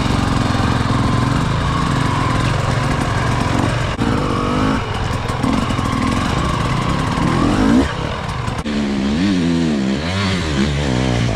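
Motocross bike engine running hard under riding, its pitch changing with throttle; in the last few seconds it revs up and drops back repeatedly.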